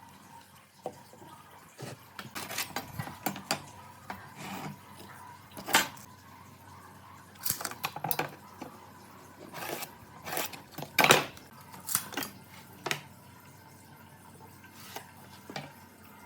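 Irregular clatter and knocks of hard objects being handled and set down, the loudest about two-thirds of the way through.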